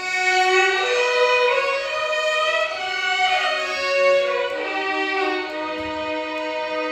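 Violin ensemble playing a Carnatic melody together, with sliding, ornamented notes; it comes in louder right at the start.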